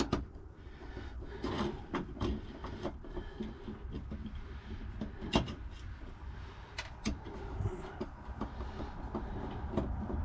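Screwdriver undoing the screws on a safe lock's case: irregular small metal clicks and scrapes, over a steady low hum.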